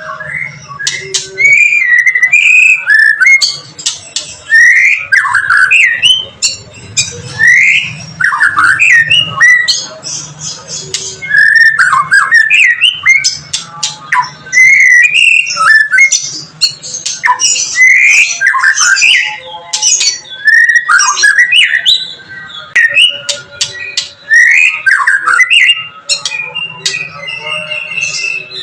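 White-rumped shama (murai batu) singing loudly and almost without pause: a rapid, varied stream of sliding whistles mixed with sharp clicking notes. This is the vigorous song of a male worked up to fight, with no rival present.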